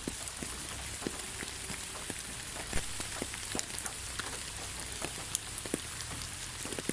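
Steady light rain: a soft even hiss with many separate drops ticking irregularly, over a low steady rumble.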